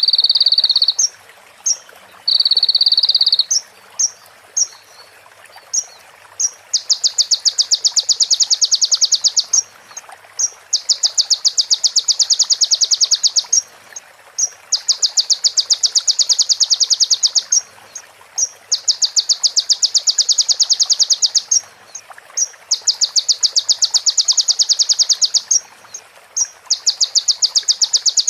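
A kolibri ninja (Van Hasselt's sunbird) singing, with mimicked phrases of a female prinia and a bar-winged prinia. It opens with two short buzzy trills, then scattered short notes. From about seven seconds in come rapid, high ticking trills of about three seconds each, repeated with short pauses between them.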